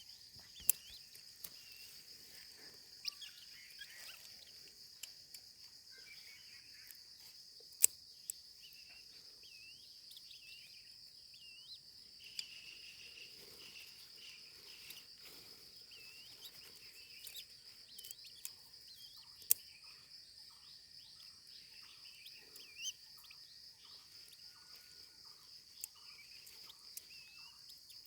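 Steady, unbroken high-pitched insect chorus like crickets, with scattered short bird chirps over it. A few sharp clicks stand out, and a regular pulsing call, about two a second, joins near the end.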